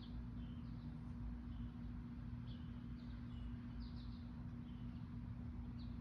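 Faint short bird chirps, several scattered through, over a steady low hum.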